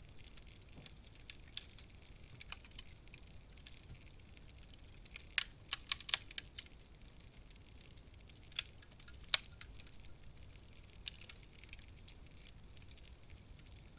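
Wood fire crackling: scattered sharp pops and snaps over a faint low hiss, with a quick run of loud snaps a little before halfway and two more single loud pops soon after.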